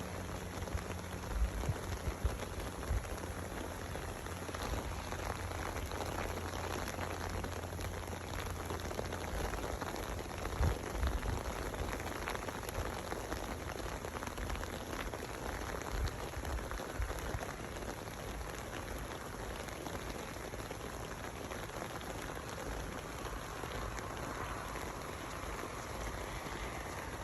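Steady rain falling on an umbrella, with a few low thumps in the first few seconds and again about ten seconds in.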